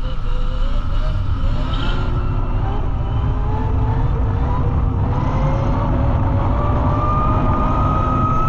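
QS138 electric hub-drive motor whining as the dirt bike accelerates, its pitch rising slowly and steadily over a loud low rush of wind and road noise.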